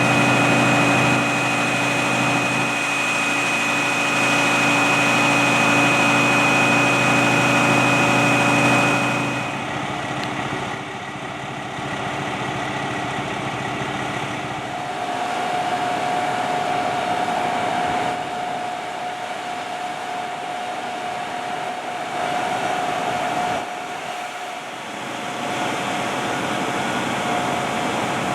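Emergency vehicle's engine running at a steady speed with a high whine. About nine seconds in the loud tones cut off, leaving a quieter steady hum with a single thin tone.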